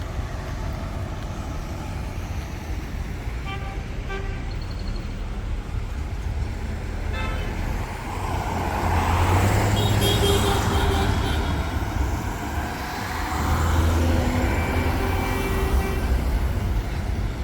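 Road traffic: vehicles passing with a steady engine rumble that swells louder twice, with several short horn toots.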